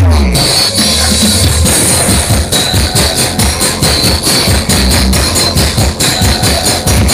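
Loud dance music played through a large sound system. It has a heavy, booming bass, a fast steady beat and jingling tambourine-like percussion on top.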